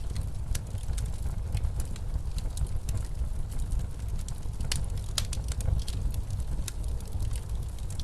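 Wood fire crackling in a fireplace, with irregular sharp pops, over the steady low rumble of blizzard wind.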